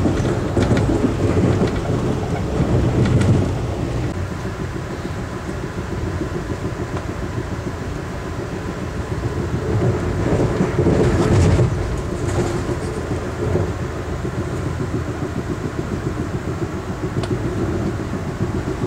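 Low rumble of an Amtrak passenger coach running at speed, heard from inside the car: the wheels on the rails with body rattle. It swells louder near the start and again about halfway through, with a few faint sharp clicks.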